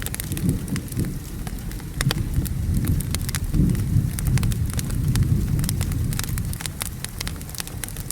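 Wood fire crackling with sharp, irregular pops over the low, rolling rumble of a thunderstorm and steady rain. The rumble swells about halfway through.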